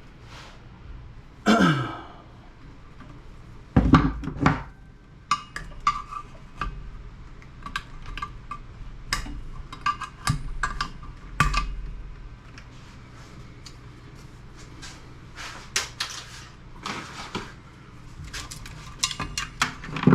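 Clattering, clicking and knocking of hands and tools taking apart an old CRT computer monitor, with a short sound sliding down in pitch about a second and a half in and two heavy thumps around four seconds in.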